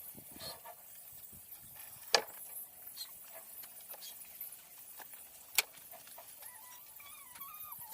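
Two sharp knocks on wood about three and a half seconds apart, among lighter ticks, as a wooden boat's ribs are worked on; a bird's wavering call comes in near the end.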